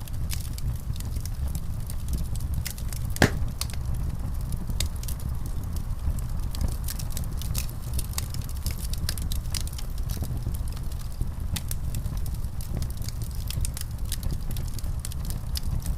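Fire in a fireplace crackling steadily, with many small irregular pops over a low rumble and one louder pop about three seconds in.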